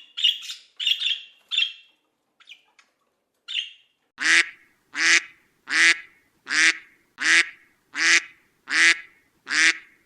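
A bird calling over and over: short, high, harsh calls at first, then a gap, then from about four seconds in eight louder, harsh calls at an even pace, a little under one a second.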